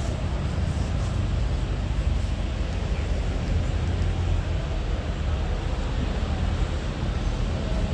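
Steady low rumble with a light hiss and no distinct events: the background noise of a large exhibition hall.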